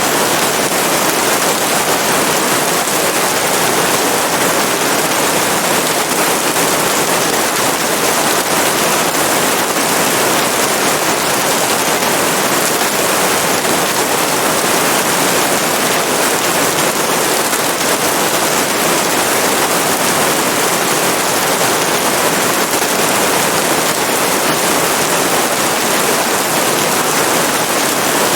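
Steady heavy rain, a dense even hiss of drops with no breaks or changes.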